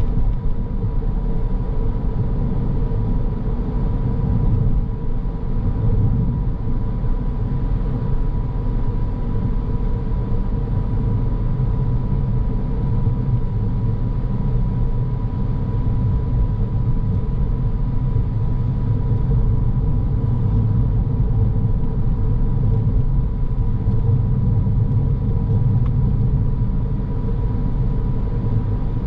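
Car driving steadily: a continuous low rumble of road and engine noise, with a faint steady whine above it.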